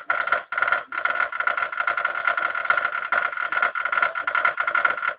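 Balls of a ball-circulating 'perpetual motion' device rattling and clicking rapidly along its track, with a steady whir underneath and brief breaks in the rattle.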